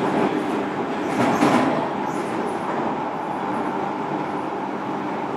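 Steady interior noise of a JR Kyushu 305 series electric train, heard inside one of its motor cars, with a brief louder, brighter burst about a second in.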